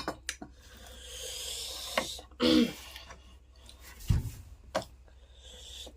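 Close-miked eating sounds: scattered mouth clicks and smacks, a drawn-out breathy noise, and a short hummed "mm" about two and a half seconds in. A low thump comes about four seconds in.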